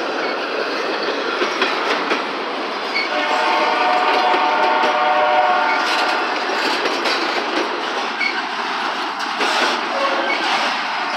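Double-stack container train rolling past, with a steady rumble and wheels clacking over rail joints. A locomotive horn sounds a held chord from about three to six seconds in.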